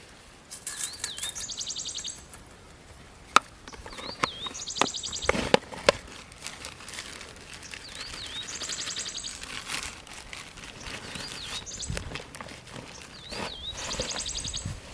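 A bird calls over and over, each call a short wavy whistle followed by a quick run of high notes, repeating every three to four seconds. A few sharp knocks and some rustling come in between.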